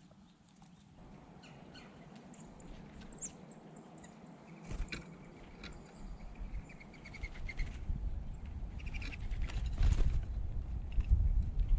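Small birds chirping, with a short trill in the middle, over a low rumbling noise that comes in about halfway and grows louder toward the end, with a few sharp low thumps.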